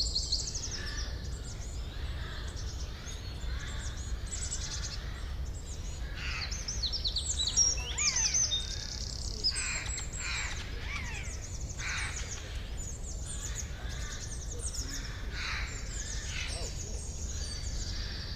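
Several songbirds singing and calling at once: quick down-slurred whistles and rapid trills, one after another, over a steady low rumble.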